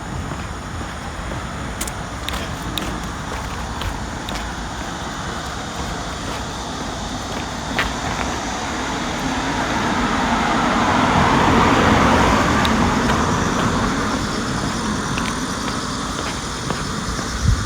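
A road vehicle passing by: its tyre and engine noise swells to a peak about two-thirds of the way through, then fades, over a steady low rumble.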